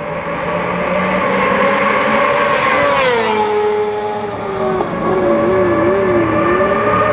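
Four-cylinder supersport racing motorcycle engines at high revs, holding a high note, dropping in pitch about three seconds in, wavering briefly around five to six seconds in, then climbing back to a steady high note.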